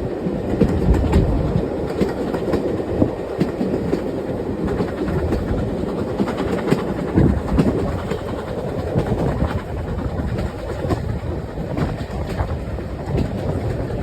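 GWR Prairie 2-6-2 tank steam locomotive pounding uphill on a 1 in 100 gradient: continuous heavy working exhaust mixed with the clatter of wheels over the rail joints.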